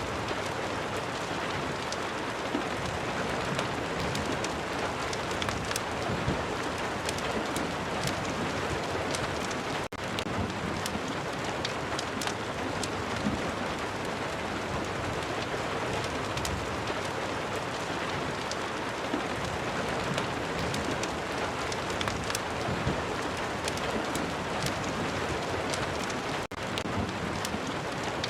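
Rain and fireplace ambience: a steady rain hiss with frequent short crackles on top. The sound drops out for an instant twice, about ten seconds in and near the end.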